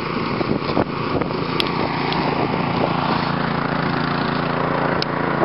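Snowblower's small engine running steadily at a constant speed.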